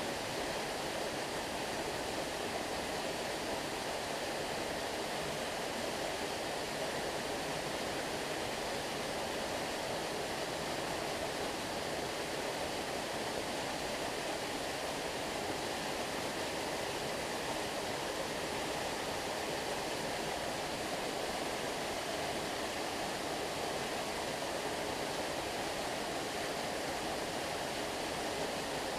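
Stream water flowing steadily: an even, unbroken wash of sound with no changes.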